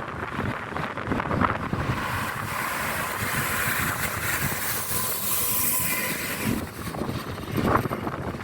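A train passing on the line: a rush of wheel and rail noise swells about two seconds in and drops away after about four seconds, carrying a faint thin steady tone. Wind buffets the microphone.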